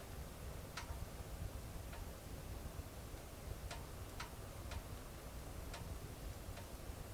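Wood fire burning, with sharp pops and snaps from the burning logs coming irregularly, about one a second, over a faint steady low rumble.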